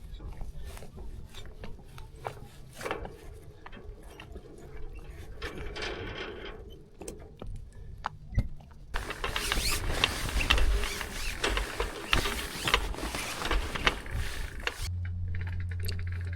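Sail handling on a yacht's deck: scattered clicks, ratcheting and rattles of rigging hardware and rope. About nine seconds in comes a stretch of dense rushing noise, and near the end a steady low hum starts.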